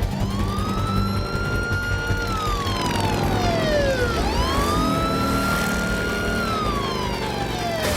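Vehicle siren wailing through two slow cycles. Each cycle climbs quickly, holds a high note for about two seconds, then slides steadily down, with the second rise starting about four seconds in. A low steady rumble runs underneath.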